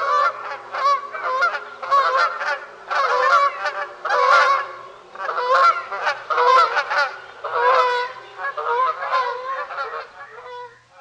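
A flock of waterfowl calling, many overlapping calls in quick succession, cutting off at the end.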